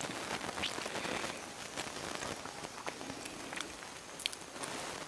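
Close-miked chewing of juicy bilimbi fruit coated in rujak sauce: wet crunching and squelching mouth sounds with scattered small clicks.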